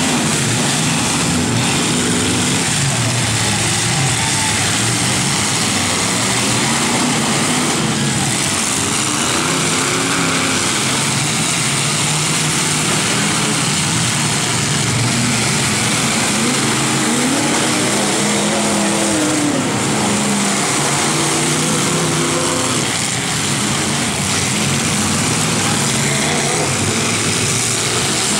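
Several truck engines revving and running hard in a demolition derby, their pitch rising and falling again and again over a dense, noisy din.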